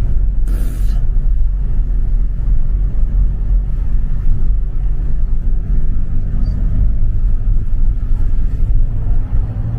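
Steady low rumble of a small bus's engine and tyres, heard from inside while it drives along, with a brief hiss about half a second in.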